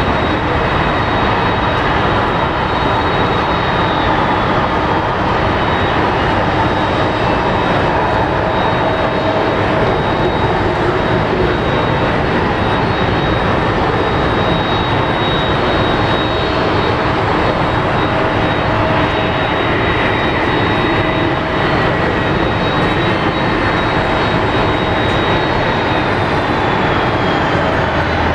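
Jet engines of a Boeing 777-200 airliner running at high power: a loud, steady roar with a high whine that slides down in pitch a couple of times.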